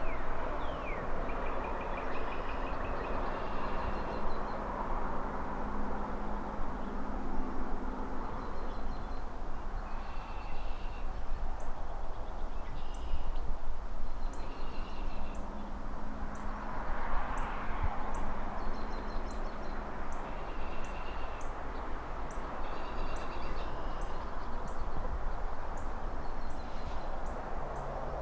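City ambience: a steady hiss of distant traffic and wind in the trees, swelling now and then as cars pass, with a low hum underneath. Small birds chirp in short repeated phrases throughout, and a faint high tick repeats about once a second from roughly a third of the way in.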